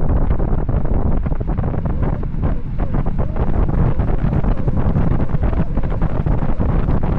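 Heavy wind buffeting on the microphone from the rush of air during a high-speed bicycle descent: a loud, steady low rumble with no letup.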